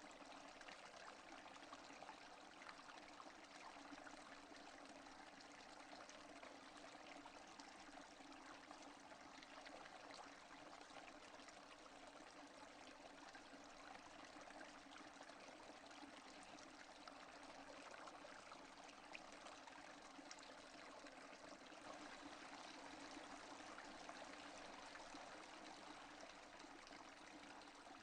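Steady, faint rain falling, an even hiss of many small drops with no thunder.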